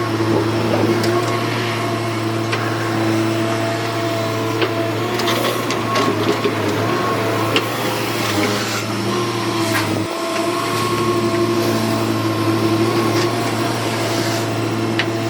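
Hyundai 210W wheeled excavator's diesel engine and hydraulics running steadily under work, with a scattering of short knocks and scrapes from the working gear.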